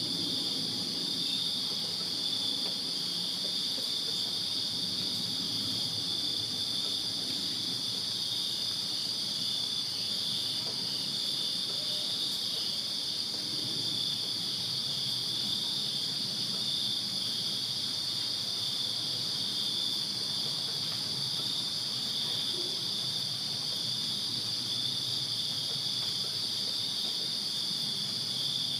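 Crickets chirping in a dense, continuous night chorus at two steady high pitches, with a faint low rumble underneath.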